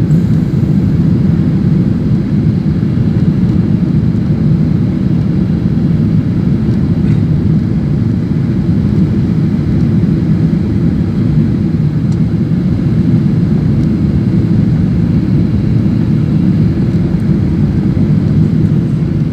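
Steady drone of an airliner cabin in flight: engine and airflow noise, deep and unchanging.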